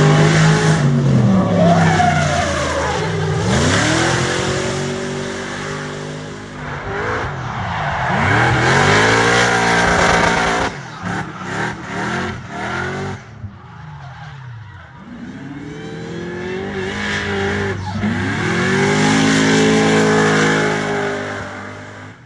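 Supercharged GM LS V8 in a BMW E92 drift car revving hard while its tyres squeal through a drift. The engine note rises and falls in several long surges, and around the middle it cuts in and out briefly before building again.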